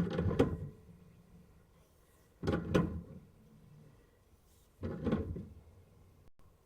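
Sewer scope camera's push cable being fed by hand into an ABS plastic drain line, in three short strokes of scraping and knocking about two and a half seconds apart.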